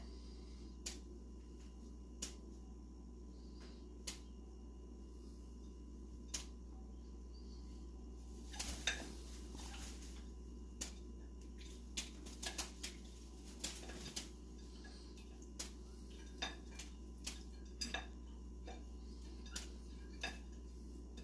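Pet bird bathing in a dish: scattered light clicks and taps against the dish every second or two, with a brief flurry of taps and noise about nine seconds in, over a steady low hum.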